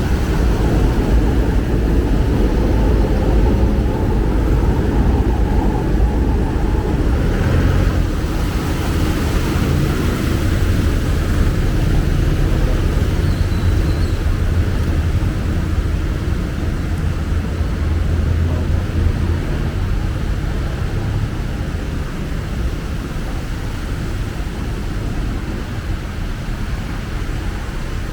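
Steady low rumble of street traffic, vehicle engines running, easing off a little toward the end.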